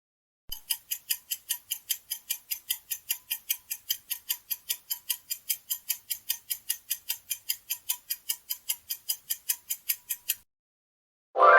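Clock-ticking countdown sound effect, about four even ticks a second for roughly ten seconds, stopping just before a loud chime near the end that signals time is up.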